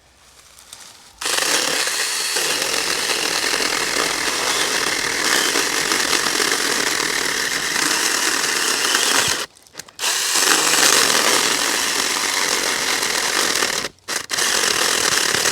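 Saker mini 4-inch cordless electric chainsaw cutting into a resinous pine knot, its chain running with a steady high whine. It starts about a second in, stops briefly twice (around nine and a half seconds and near fourteen seconds) and starts cutting again each time.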